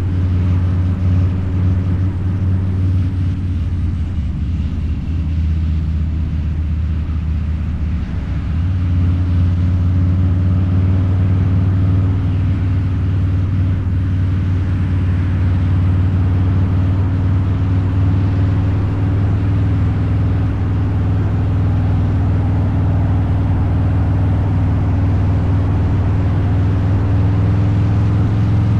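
Harley-Davidson Low Rider's 129 cubic inch V-twin running steadily on the road through a Two Brothers Racing exhaust. The level dips briefly about eight seconds in, and the engine's pitch climbs slightly near the end.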